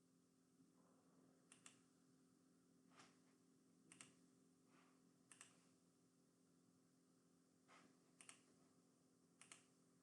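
Near silence with faint, scattered clicks of computer keys, about eight in all, some in quick pairs, over a faint steady hum.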